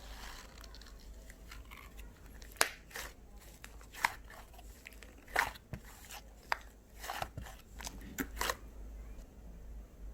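Fluffy cloud slime being squished and stretched by hand, giving a series of sharp pops and crackles, the loudest about two and a half seconds in, with more in a quick cluster near the end.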